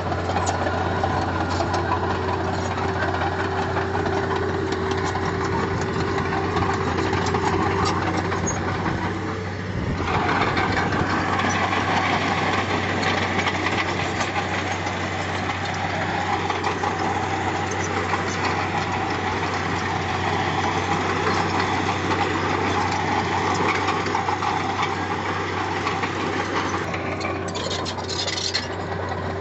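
Diesel engine of heavy earthmoving equipment running steadily. It grows louder and busier about ten seconds in, as if under more load, and eases back shortly before the end.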